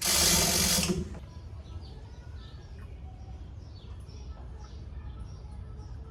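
A loud burst of clattering tool or mechanism noise for about a second, then faint repeated bird chirps over a low steady hum.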